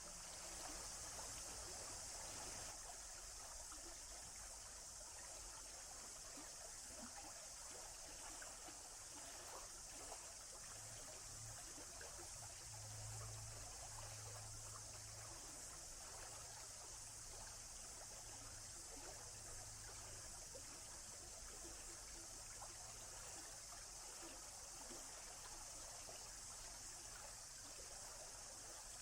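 Faint, steady rush of flowing water from a stream, with a faint low rumble swelling for a few seconds around the middle.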